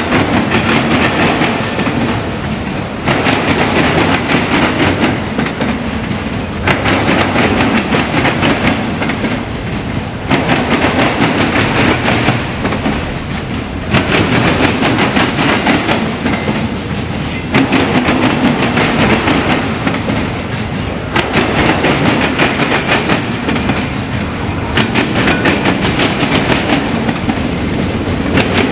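Freight train cars rolling slowly past, wheels clicking over rail joints, the sound swelling and easing about every three and a half seconds as each car goes by.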